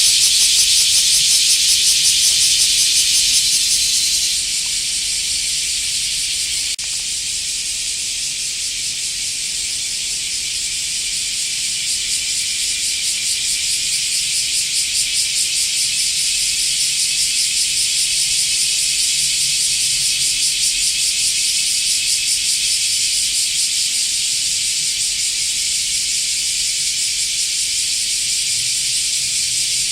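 Cicada singing: a loud, continuous shrill buzz with a fast pulsing texture, which drops a little about four seconds in and then slowly swells again.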